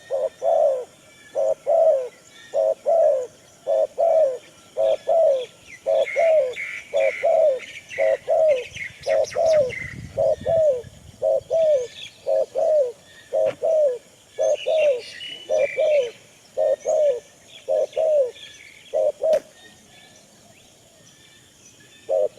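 A dove cooing over and over in short paired notes, about one pair a second, pausing about three seconds before the end and starting again at the very end, with higher chirps from small birds at times.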